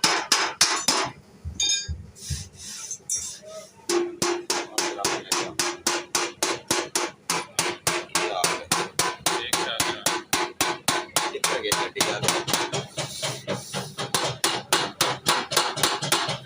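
Rapid, even hammer blows on a car's sheet-metal body panel, about four or five a second, as the dented side is beaten out. The hammering breaks off about a second in and resumes around four seconds in.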